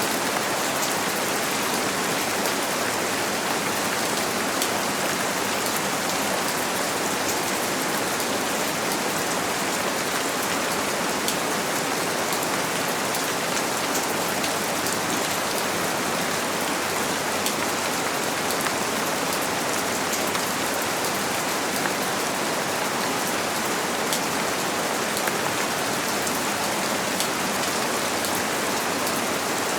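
Steady rain falling on a window pane: an even hiss with fine ticks of single drops scattered through it.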